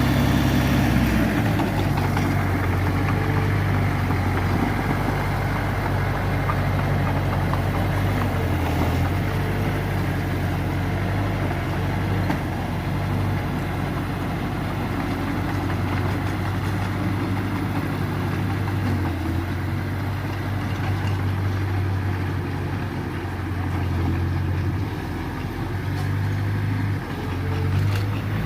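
Diesel engine of earthmoving machinery running steadily at low revs, its low tone wavering a little with load.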